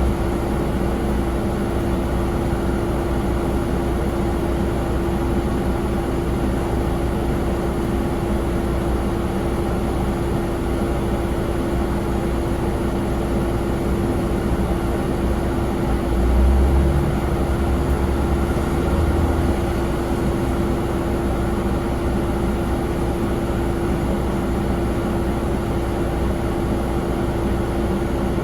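Steady drone of jet aircraft noise with a constant hum. A brief low rumble swells about sixteen seconds in.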